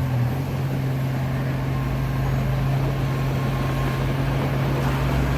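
Diesel engine of heavy earthmoving machinery running at a steady speed, a constant low hum.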